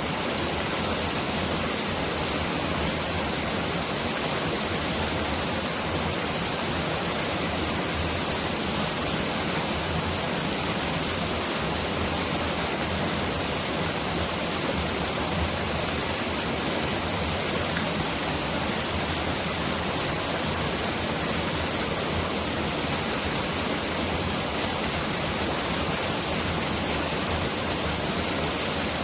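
Mountain valley stream rushing over rocks: a dense, steady hiss of running water, close to the sound of heavy rain.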